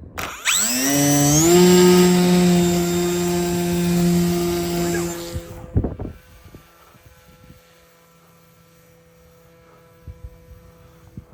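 An electric motor spinning up to a steady whine with a deep hum beneath it. It runs at one pitch for about five seconds, then cuts off sharply, as in a powered launch of an RC sailplane.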